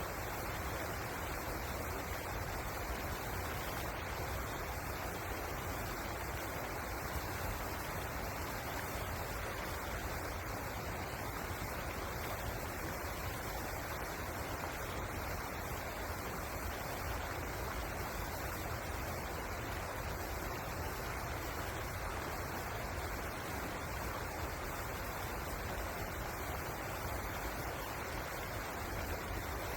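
River water rushing and flowing in a steady, unbroken noise.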